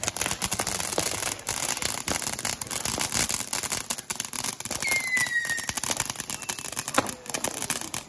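Fireworks crackling in a dense run of rapid pops. About five seconds in comes one short whistle, sliding slightly down in pitch.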